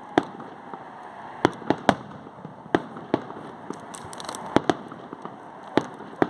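Fireworks going off: sharp bangs at irregular intervals, about ten in six seconds, over a steady background of more distant crackle and pops. A faint falling whistle sounds in the first second and a half, and a brief high crackling comes about four seconds in.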